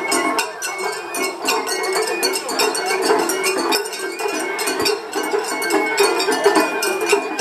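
Japanese festival hayashi music from a float: a bamboo flute playing held notes over drums and a rapidly struck hand gong.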